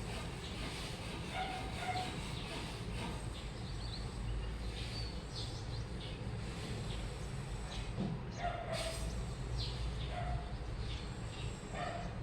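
Washing machine running with a steady low rumble, with short higher-pitched sounds recurring every second or two.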